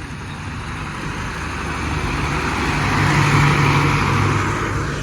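A tractor engine running as the tractor drives past, a steady low drone that grows louder to a peak about three seconds in, then fades.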